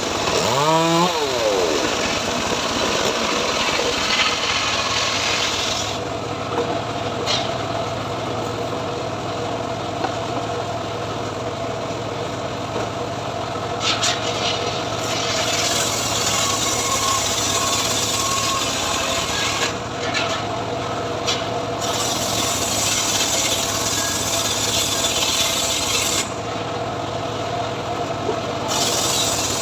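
Homemade engine-driven log saw cutting mahogany: the engine runs steadily under load with the rasp of the blade through the wood, and the cutting noise eases off briefly three times.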